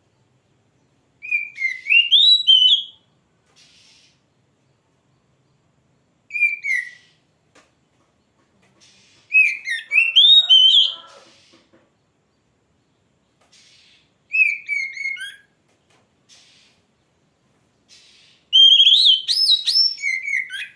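Oriental magpie-robin (kacer) singing loud whistled phrases full of quick up-and-down sweeps, in five bursts of one to two seconds each separated by pauses. Faint short scratchy notes come between the bursts.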